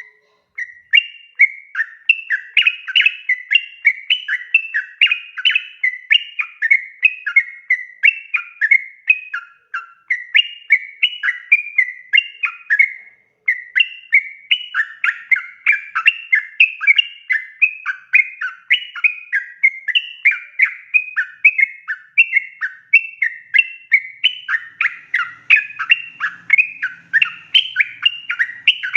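Yellow-vented bulbul (trucukan) singing a long, rapid run of quick chirping notes with hardly a break, pausing briefly about 13 seconds in. This is the long 'ropel' song used as a lure to get other trucukan to answer.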